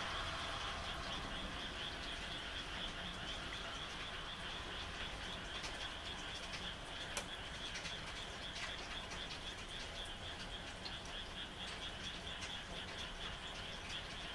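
A chorus of frogs calling in a dense, fast-pulsing trill, steady throughout, over the even hiss of falling rain, with scattered sharper drops ticking, the clearest about seven seconds in.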